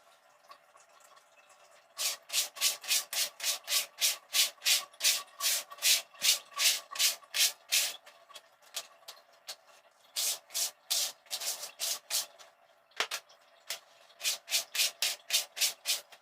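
Brisk back-and-forth rubbing strokes, about three a second, in several runs with short pauses, over a faint steady hum. A single sharp click comes about two-thirds of the way through.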